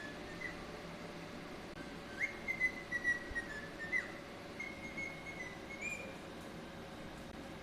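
A parrot whistling: a string of short whistled notes with quick upward slides, loudest a couple of seconds in, over a faint steady hum.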